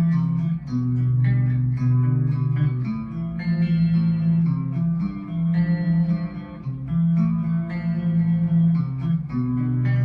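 Clean electric guitar through a Line 6 Spider IV amp with chorus and reverb, picking chords and arpeggios with notes that ring out and change about every second or two.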